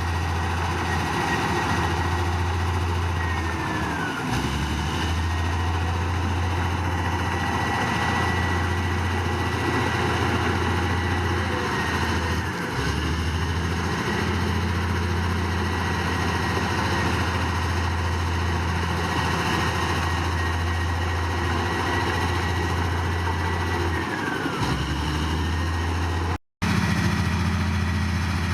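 Heavy diesel engine of a Komatsu D58P crawler bulldozer working steadily: a deep hum with a high whine on top, its pitch dipping briefly three times as the machine is loaded or changes direction. The sound cuts out for an instant near the end.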